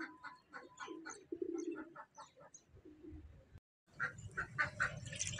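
Birds chirping: many short calls in quick succession, broken by a sudden brief silence about three and a half seconds in, then going on.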